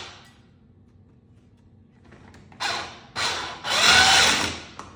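Electric shaved ice machine running in three bursts as its blade shaves an ice block: two short bursts, then one of about a second, a whirring grind with a faint whine.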